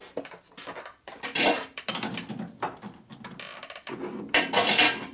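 Steel lathe centers and tooling being handled: several separate clinks, knocks and scrapes of metal on metal, with the loudest, ringing clatter near the end.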